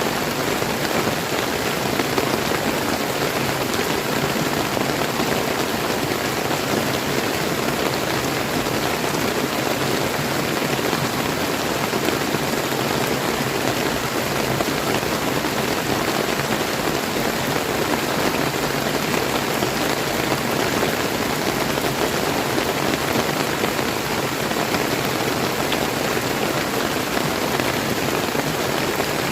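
Steady rain falling together with a clear, flowing river stream, an even unbroken hiss of water.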